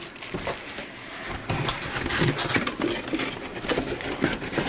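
Rustling and a string of light clicks and knocks as metal detector parts and their packaging are handled during unboxing.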